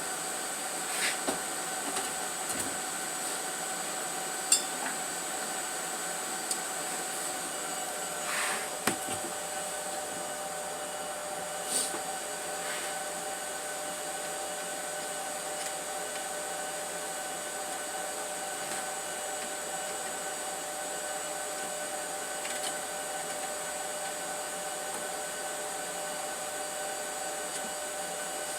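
A steady machine hum runs throughout, with a few short clicks and knocks about 1, 4.5, 8.5 and 12 seconds in.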